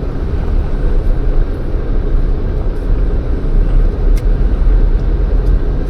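A Jeep driving with its windows down: a loud, steady rumble of tyre and wind noise, with a few faint clicks.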